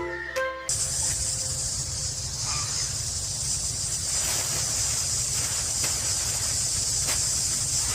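Music cuts off less than a second in, replaced by a steady high hiss over a low rumble.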